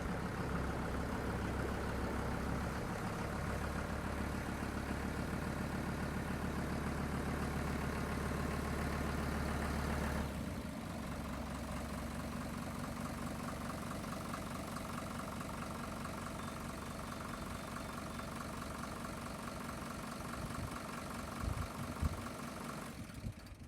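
Kubota M-120 tractor's diesel engine running steadily, then dropping to a lower, quieter idle about ten seconds in. A couple of knocks come near the end, and then the engine stops.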